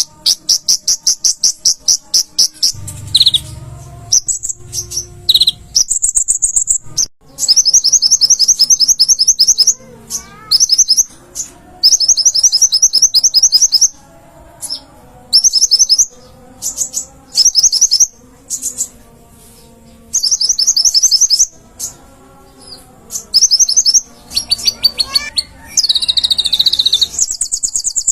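A konin (kolibri ninja) sunbird singing loudly in rapid, high-pitched trills of fast repeated notes, each phrase lasting a second or two with short pauses between. A faint low rumble sits underneath a few seconds in and again near the end.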